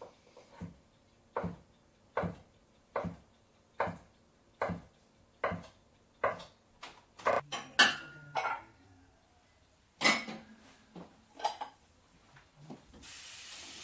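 Kitchen work: a run of evenly spaced knocks, a little over one a second, then a clatter of dishes and cutlery and one louder clunk, with a tap starting to run near the end.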